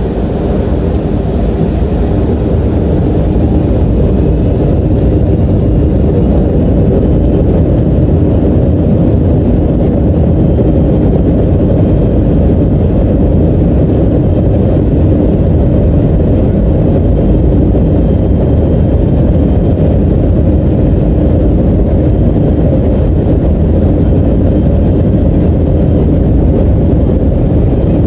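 Boeing 737-300's CFM56 turbofan engines at takeoff power, heard as a loud, steady rumble inside the passenger cabin. The rumble swells over the first few seconds, then holds level.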